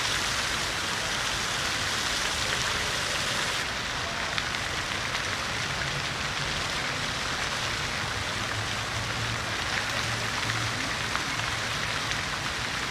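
City fountain: water falling and splashing in a steady, even rush.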